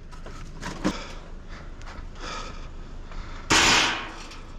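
Handling of a heavy steel wheelchair lift: a light knock about a second in, then a loud half-second rush of noise near the end as the steel is moved.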